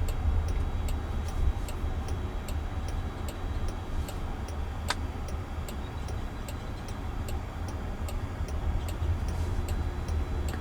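Turn-signal indicator ticking steadily inside a Waymo robotaxi's cabin over a low road rumble, with one sharp click about five seconds in.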